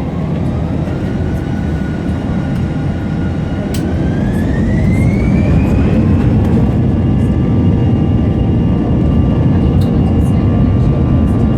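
Airbus A321 jet engines spooling up to takeoff thrust, heard inside the cabin: a whine rises steadily over about six seconds, then holds at a steady pitch over a heavy rumble that grows louder as the power comes in. A sharp click sounds about four seconds in.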